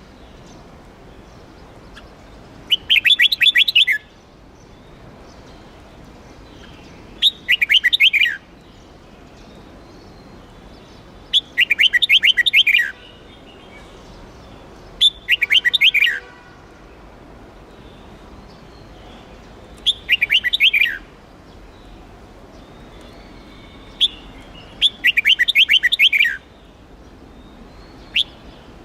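Red-whiskered bulbul singing: short phrases of quick, sweet whistled notes, each about a second long, repeated every few seconds, about seven times.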